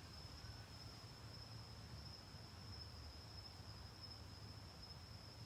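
Near silence: room tone with a faint steady high-pitched tone and a low hum.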